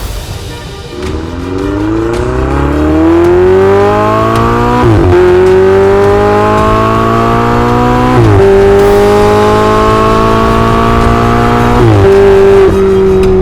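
Ferrari 488 Spider's twin-turbo 3.9-litre V8 accelerating hard through the gears: the engine note climbs steadily, drops abruptly at three quick upshifts about five, eight and twelve seconds in, and climbs again after each.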